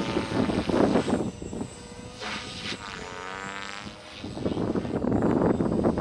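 Beam Acro480 electric RC helicopter in freestyle flight: the main rotor blades whoosh in loud swells as it manoeuvres. Around the middle, the whine of the motor and gears dips and then rises again in pitch.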